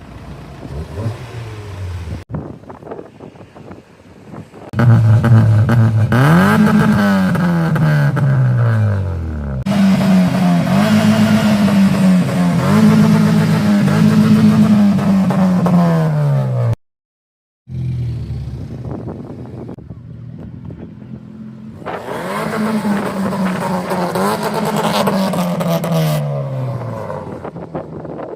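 Car engine revving hard, the note climbing, held high and falling back, three times over.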